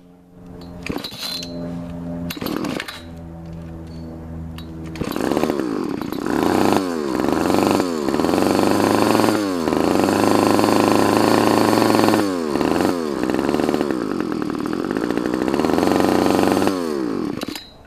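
Small two-stroke engine running through a homemade multi-chamber exhaust whose joint is sealed only by cracked exhaust putty: a few seconds at a lower speed, then revved hard and held high with several brief dips, until it stops near the end. The exhaust note is not very quiet but very deep.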